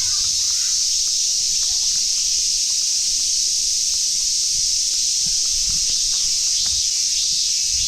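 A chorus of summer cicadas singing as one steady, unbroken high-pitched drone, with soft low thuds of footsteps underneath.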